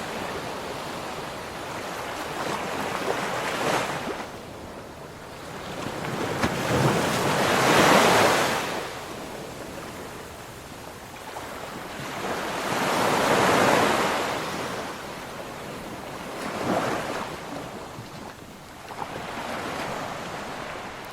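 Ocean waves breaking on a beach, the surf swelling and washing back in slow surges. The two largest come about 8 and 13 seconds in, with smaller ones between.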